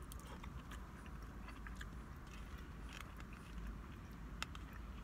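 Close-up chewing and biting of a person eating a steak teriyaki plate off a fork, with many small scattered mouth and utensil clicks and one sharper click about four and a half seconds in, over a low steady hum.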